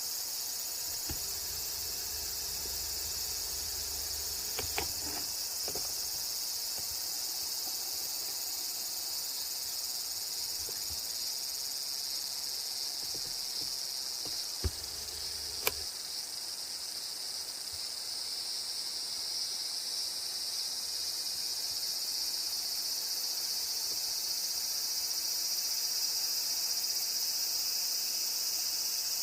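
A steady, high-pitched chorus of insects chirring, such as crickets, growing slightly louder toward the end. A few sharp clicks come at about 5 s and twice near the middle, and a faint low rumble stops about halfway through.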